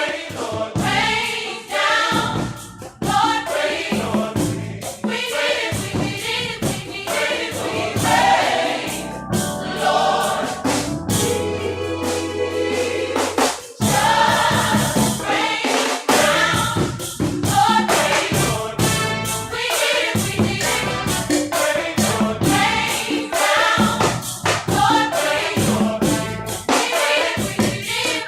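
Gospel choir singing over a band with a steady beat. Midway the music swells into a long held chord that breaks off sharply, and then the beat comes back in.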